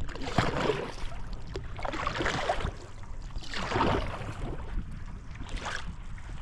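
Sea kayak being paddled on open ocean: water splashes and washes about every second and a half to two seconds as the paddle blades dip, over a steady low rumble of wind on the microphone.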